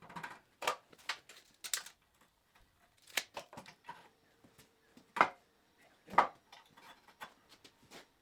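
A run of irregular sharp knocks and clicks from hard objects being handled or tapped, the two loudest about five and six seconds in.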